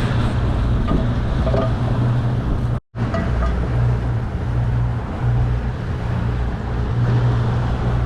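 Boat motor running steadily under way, with wind and water noise over it. The sound cuts out for an instant about three seconds in.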